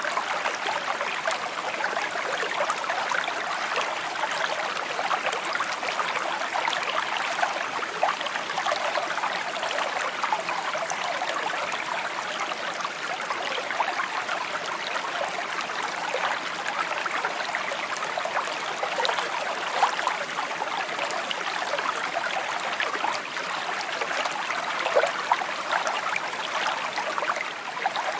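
A shallow stream babbling steadily over stones, with small splashes and gurgles flickering through the flow.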